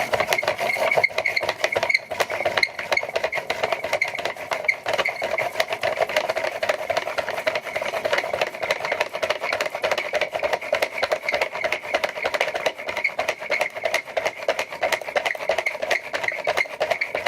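Washing-machine motor used as a hand-cranked generator, turned rapidly back and forth in quarter turns to build up charge for a spark: a dense, continuous rattle over a steady whine.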